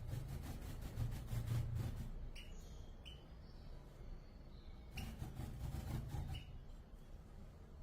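European goldfinches giving a handful of short, sharp call notes, scattered a second or two apart. Under them runs a low rumbling noise that swells twice.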